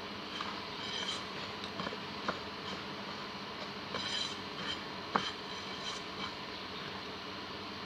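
Chicken frying in oil: a steady sizzling hiss with a few scattered pops and light taps.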